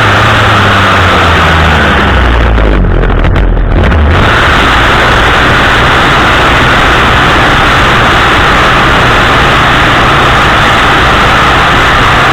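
Chainsaw on a pole extension running at high revs, very loud and close, dropping back to a low idle about two and a half seconds in and revving up again about four seconds in.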